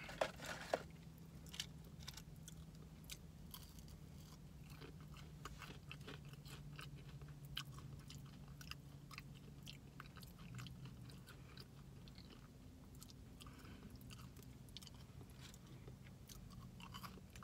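Quiet close-up chewing of Chick-fil-A waffle fries, with many small wet mouth clicks, over a steady low hum.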